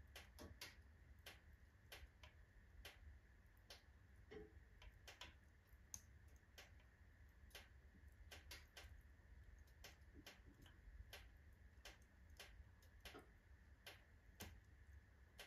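Oak and alder logs burning in a fireplace stove, giving off faint, irregular crackles and pops, a few a second.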